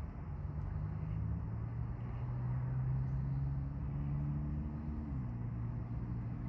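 An engine running steadily with a low hum, its pitch dropping slightly about five seconds in.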